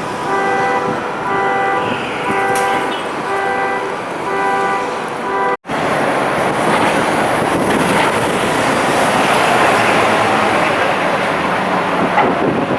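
A car alarm sounding the car's horn in short, evenly repeated blasts over street traffic noise. About five seconds in it cuts off abruptly, and a loud, steady rush of city traffic noise follows.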